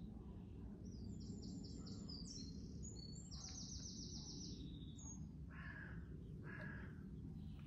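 Garden birds chirping, with a fast high trill about halfway through and two short, harsher calls near the end, over a faint steady low rumble of outdoor background noise.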